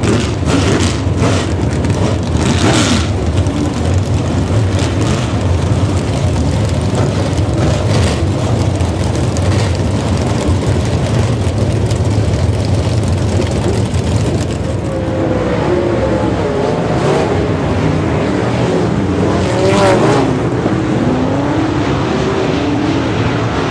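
Dirt-track race cars' engines running loudly around the oval. In the second half several engine notes rise and fall as cars rev and pass.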